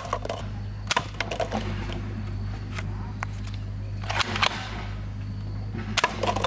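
Scattered sharp plastic clicks and knocks from toy guns being handled: one at the start, one about a second in, a small cluster around four seconds in and a pair near the end, over a steady low hum.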